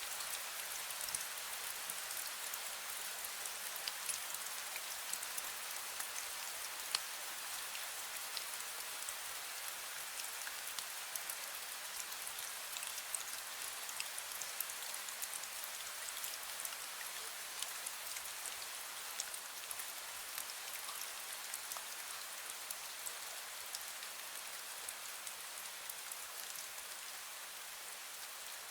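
Fine misty rain falling steadily: an even hiss with many small drops ticking on surfaces.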